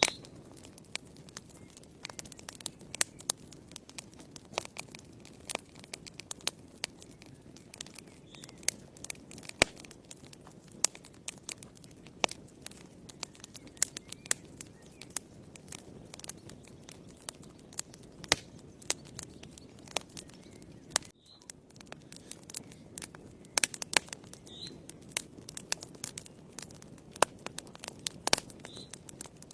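Wood fire burning in a fireplace: a steady low hiss of flames with irregular sharp crackles and pops, several a second at times. The sound briefly drops out about 21 seconds in.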